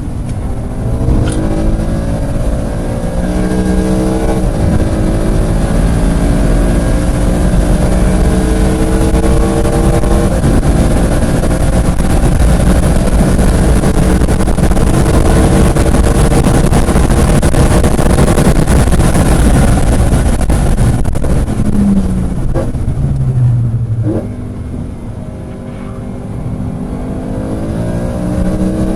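Car engine heard from inside the car at a track day, pulling hard and rising in pitch through the gears with an upshift about four seconds in, then held at full throttle. Around three quarters of the way through, the engine lifts off, falls in pitch and gets quieter while slowing for a corner, then picks up and rises again near the end.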